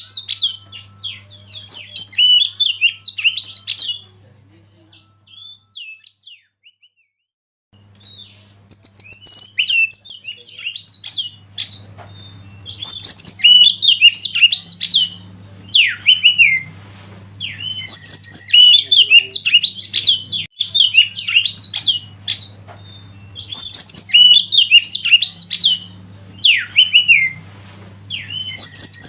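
Oriental magpie-robin singing a rapid, varied song of chirps and whistles in bursts, with a lull of a few seconds near the start. A low steady hum runs underneath.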